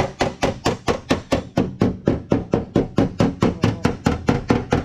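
Body hammer beating a damaged car fender panel in a steady rhythm, about four or five blows a second, each blow ringing briefly: the dent being worked out of the metal.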